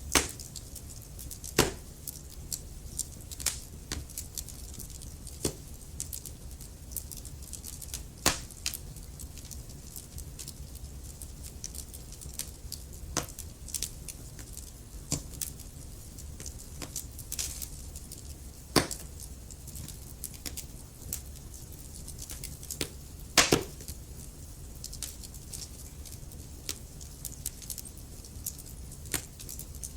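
Wood fire in a fireplace, burning logs crackling and popping at irregular moments over a low steady rumble and hiss of flame. A few louder pops stand out, the loudest about two-thirds of the way in.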